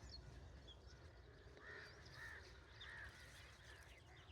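Faint birds calling: a series of repeated arched calls from about a second and a half in, with a few small high chirps before them.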